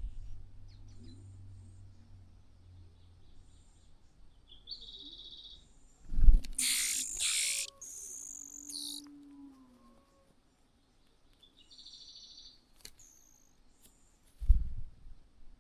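Small birds chirping in short, high, rapid trills, twice. About six seconds in, a loud knock is followed by a couple of seconds of loud rustling, and a second knock comes near the end.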